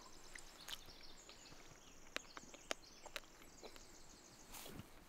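Near silence outdoors: faint distant birdsong, with a few soft clicks in the middle and a brief rustle near the end.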